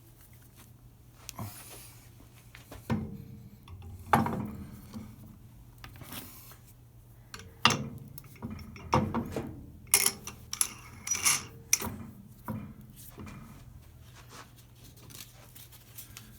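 Irregular rubbing and scraping strokes of a hand tool across the flat metal mounting surface of a brake lathe's cutter head, with a few sharper knocks. The surface is being flattened so the head seats solidly and is less prone to chatter.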